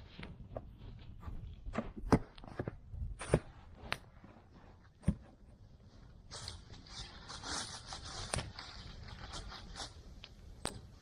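Knocks and clicks of things being handled, then from about six seconds in a run of rustling, scraping strokes.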